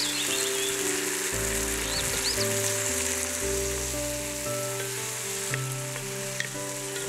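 Chicken pieces sizzling as they fry in a pot over a wood fire, a steady hiss under background music of held notes that change about once a second.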